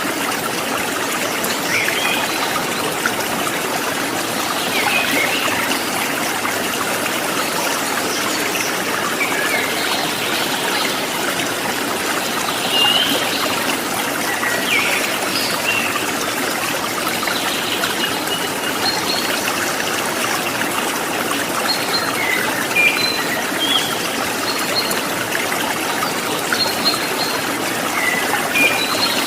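Steady trickling, babbling stream water, with short, high bird chirps scattered through it.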